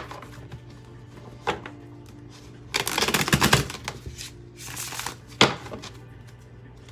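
Tarot cards being shuffled: a quick flurry of card flicks lasting about a second, then a few taps and slaps of the cards. Soft background music plays underneath.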